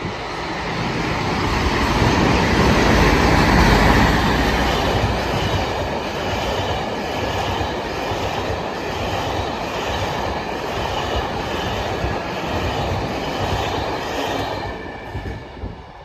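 Class 57 diesel locomotive passing through a station with its train. The sound builds to its loudest about three to four seconds in, then the wheels rattle steadily over the track before the sound falls away shortly before the end.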